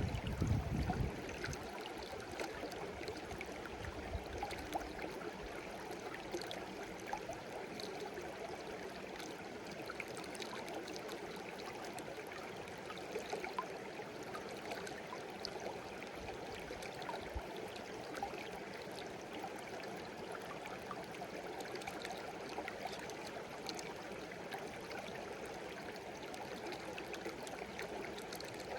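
Shallow stream babbling steadily over stones, an even rush of water dotted with many small trickles and splashes. A brief low rumble right at the start.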